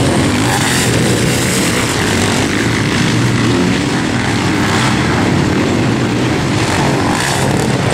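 Sidecarcross racing outfits' engines running hard, loud and continuous, as an outfit flies a jump past and the field carries on around the circuit.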